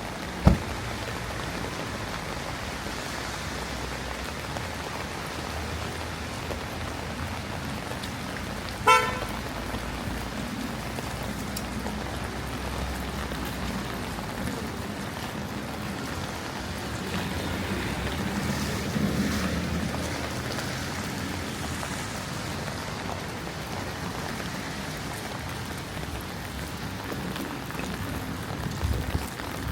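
Rain and traffic on a wet city street, with a sharp knock just after the start. About nine seconds in comes a short car horn toot, and a vehicle passes near the middle.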